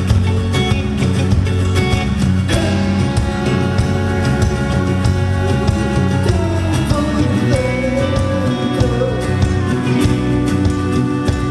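A live band playing a rock song, in a passage without vocals.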